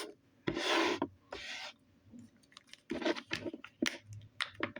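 Plastic packaging of a slime toy being worked open: two rasping rubs in the first couple of seconds, then scattered small clicks and crinkles.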